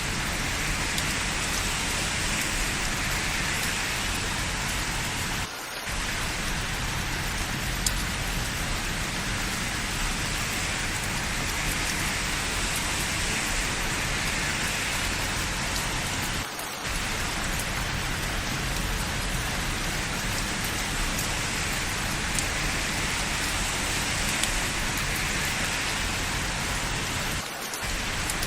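Steady heavy rain falling, an even hiss of drops on hard surfaces, with three brief momentary dips in level about eleven seconds apart.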